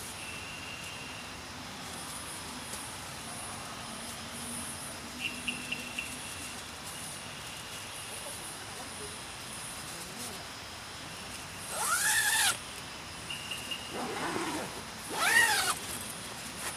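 Night insects and crickets chirping steadily, with short trills every few seconds. Near the end, two loud calls that rise and fall in pitch cut in, each under a second and about three seconds apart; their source is unclear.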